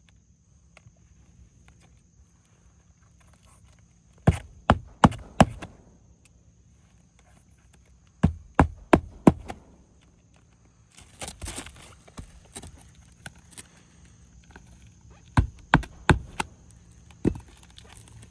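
Hammer blows driving roofing nails into an asphalt shingle, in quick runs of three to five strikes with pauses between, and a short scraping rustle in the middle.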